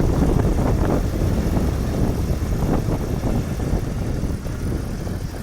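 Small home wind turbine running flat out in high wind, its spinning blades and generator making a steady mechanical drone, which is about the most noise that one ever makes. Gusts buffet the microphone throughout.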